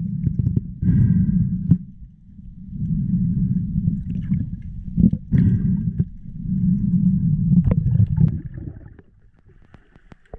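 Muffled low rumbling of water and breathing heard through an underwater camera housing, rising and falling in three long swells with a few faint clicks.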